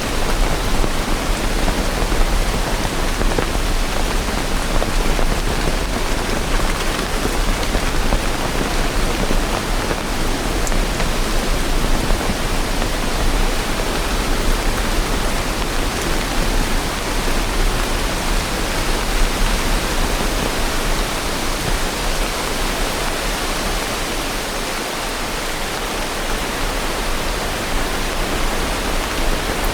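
Steady rain falling: an even, continuous hiss with a low rumble underneath.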